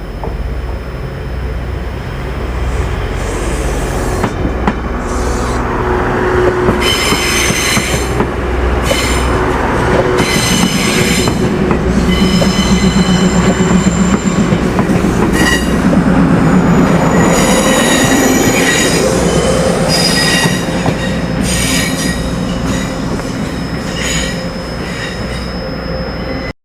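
Train moving through a station, with a heavy steady rumble from the cars and the steel wheels squealing on the rails in repeated high-pitched bursts. The rumble builds over the first few seconds, stays loudest in the middle, and the sound cuts off abruptly near the end.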